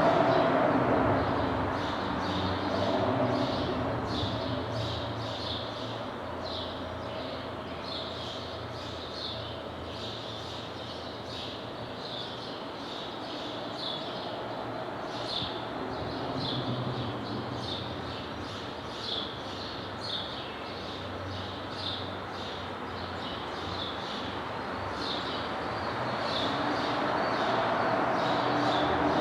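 Genesis R-Spec's exhaust through Dynomax VT mufflers dying away over the first few seconds, then building again near the end. Birds chirp repeatedly in between.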